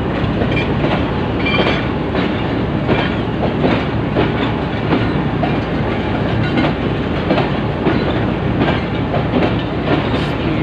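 Passenger coaches of a departing train rolling past, their wheels clacking over the rail joints about once or twice a second over a steady rumble.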